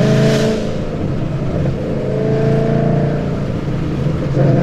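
2013 Ford Mustang GT's 5.0 V8 with full exhaust (BBK 1-7/8 in long-tube headers, high-flow X-pipe, Roush mufflers) under load, rising in pitch as it pulls. Near the end it dips briefly, as at a gear change, and then comes back louder.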